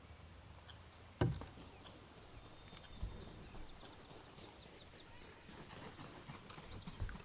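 Quiet canoe paddling on calm water: a single sharp knock, a paddle striking the canoe's hull, about a second in, and a softer knock a couple of seconds later, with faint high bird chirps.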